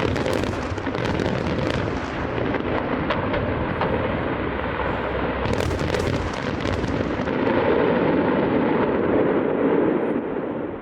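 Fireworks display going off: a continuous run of overlapping bangs and crackles, with a burst of sharper crackling about halfway through.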